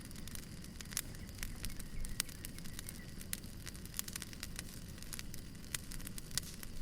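Burning firewood crackling: irregular sharp pops and snaps, several a second, over a low steady rumble.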